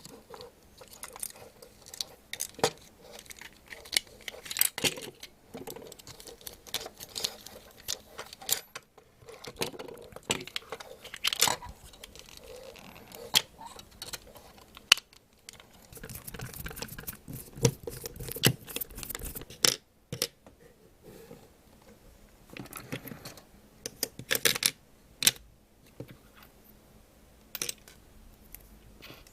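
Small plastic parts of a Plarail toy train being handled and fitted back together: scattered clicks, taps and light knocks, with a busier rustling stretch about two-thirds of the way through.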